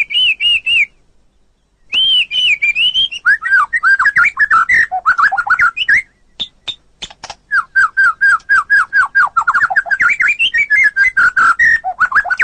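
White-rumped shama (murai batu) singing: fast runs of repeated whistled notes mixed with sharp clicks, broken by a pause of about a second near the start.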